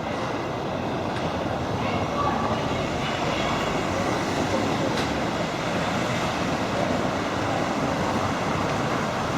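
Steady noise of a large vehicle running close by, holding at an even level without a break.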